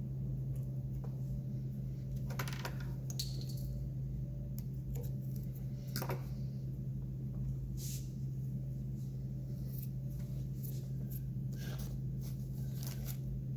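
A steady low hum under scattered light clicks and short scratchy ticks from small fly-tying tools and materials being handled at the vise.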